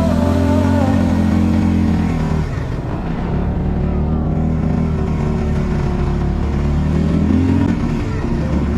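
Quad bike engine running, its pitch easing off a couple of seconds in and rising again near the end.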